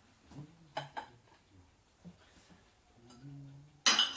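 Kitchen dishes and utensils: a couple of light clinks about a second in, then a loud clatter of crockery and cutlery near the end, ringing briefly.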